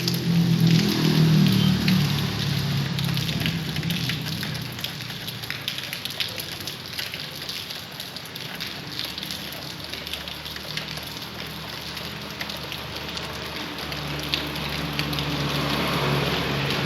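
Heavy rain falling, a dense patter of drops on surfaces. A low hum rises under it in the first couple of seconds and again near the end.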